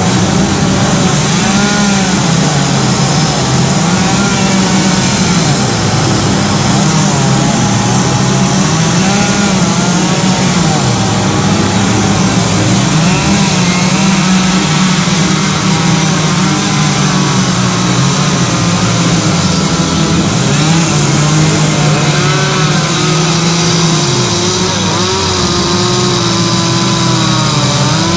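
Chainsaw running loud, its engine speed rising and falling again and again as it cuts into wood for carving.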